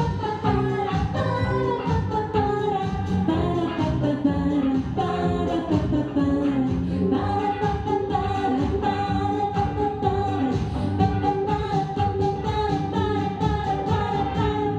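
A girl singing a children's pop song in Russian with an instrumental accompaniment and a steady beat. In the second half one long note is held.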